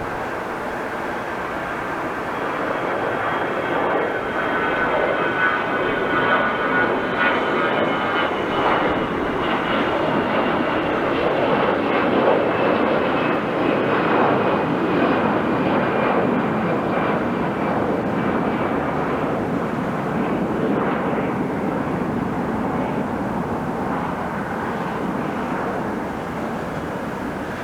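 Airbus A320 jet airliner departing, its engines running at high power. The roar builds over the first few seconds, is loudest about halfway through as the aircraft passes, then eases off. A high engine whine slowly falls in pitch as it goes by.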